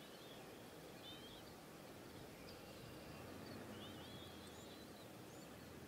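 Faint outdoor ambience: a low steady hiss with short, warbling bird chirps scattered through it, the longest about four seconds in.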